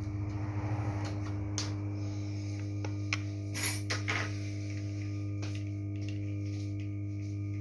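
Steady electrical hum with a few light clicks and clinks of small tools and parts being handled on a laptop's hinge assembly, the loudest about three and a half seconds in.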